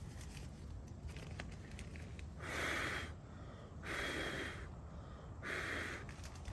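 Three even puffs of rushing air, each under a second long and about a second and a half apart, as an inflatable sleeping pad is blown up.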